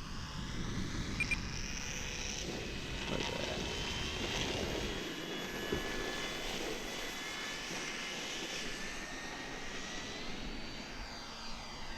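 Brushless electric motor and propeller of an E-flite Air Tractor 1.5m RC plane whining in flight on 4S power, the tone slowly drifting up and down as the plane moves around. Wind rumbles on the microphone during the first few seconds.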